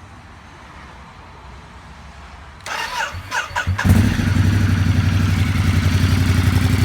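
Ducati Multistrada 1200 DVT's L-twin engine turned over on the electric starter for about a second, catching about four seconds in and settling into a loud, steady idle through an Arrow decat pipe and Works silencer with the baffle fitted.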